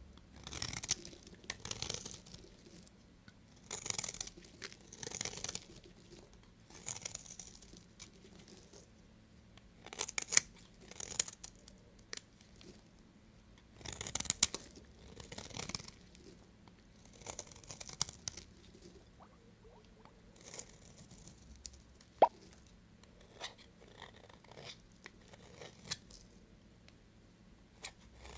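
Knife cutting through bars of soap: repeated crisp scraping crunches, one every second or two, with a single sharp click late on.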